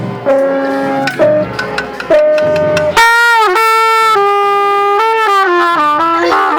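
A brass instrument played solo, a short melody of held notes. About three seconds in comes a loud, bright note, followed by a run of notes stepping down in pitch.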